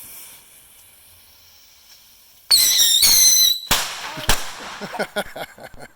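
A firework going off: about two and a half seconds in, a loud high-pitched whistle with a wavering pitch lasts about a second. It is followed by two sharp bangs about half a second apart.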